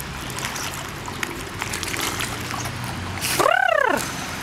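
A mass of feeding fish splashing and thrashing at the water's surface, a busy patter of small splashes. About three seconds in, a short high call rises and then falls in pitch.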